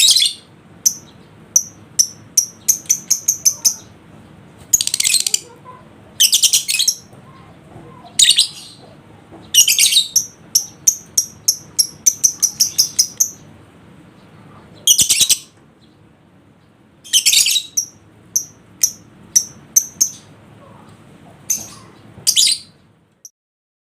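Lovebird calling: runs of short, high chirps at about five a second, broken by harsh chattering bursts each under a second long. It stops suddenly near the end.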